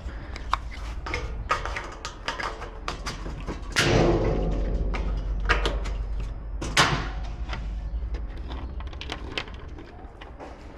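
Knocks and clattering of stainless grill parts being handled and fitted during assembly, with two louder clanks about four and seven seconds in.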